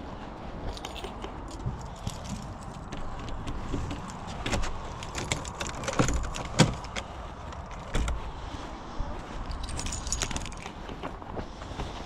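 Car cabin noise: a steady low rumble with frequent light metallic jangles and rattles, as of keys or loose objects shaking, and a sharper knock about six and a half seconds in.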